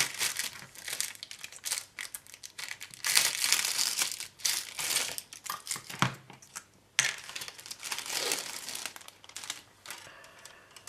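Thin plastic bag wrapping a plastic model kit's parts sprue crinkling in uneven bursts as it is handled and the sprue is taken out, with a short pause about two thirds of the way in.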